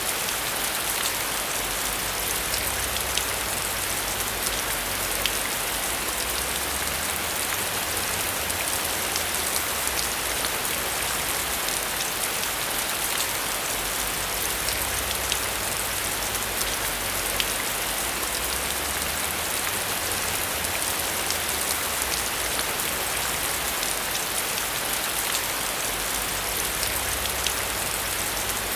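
Heavy rain falling steadily on a metal roof: a dense, even hiss scattered with many small ticks of individual drops, over a low, uneven rumble.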